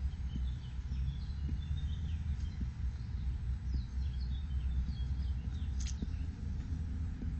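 Small birds chirping and calling in the trees, many short high notes scattered throughout, over a steady low rumble and a few soft low thumps.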